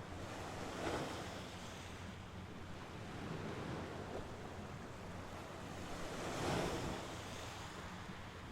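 Mediterranean sea waves washing onto the shore, a steady rush of surf that swells twice, about a second in and again about five seconds later.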